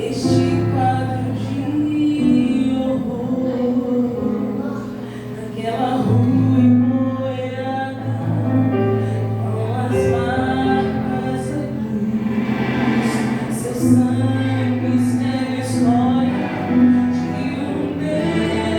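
A gospel worship song: a woman singing a slow melody over instrumental backing with long held bass notes.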